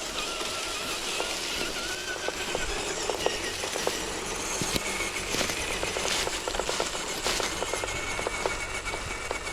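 RC4WD TF2 scale crawler's electric motor and gearbox whining steadily as it drives, with scattered sharp crackles from the forest floor under its tyres.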